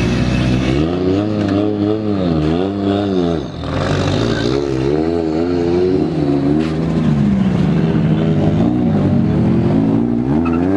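Car engine revving in repeated throttle blips, its pitch rising and falling several times, dropping off about three and a half seconds in, then wavering and climbing again near the end.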